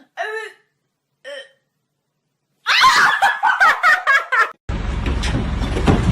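A person laughing: a couple of short bursts, then a quick run of giggling laughter. A little before the end it cuts abruptly to a loud, steady noise strongest in the low range.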